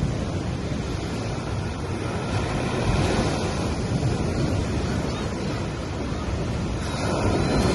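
Small sea waves washing up on a sandy beach, a steady wash of surf that swells twice, once about three seconds in and again near the end.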